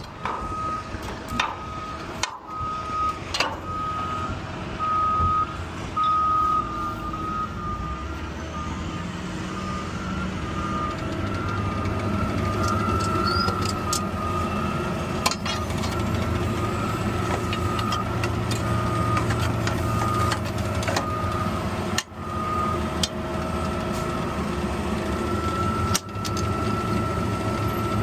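Backup alarm beeping repeatedly over the diesel engine of a garbage truck, with the engine growing louder about ten seconds in as the truck gets moving.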